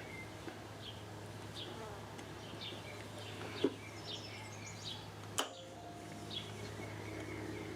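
A small bird chirping over and over in short, high, falling notes, with a steady low hum underneath. Two sharp clicks stand out, the louder one about five and a half seconds in.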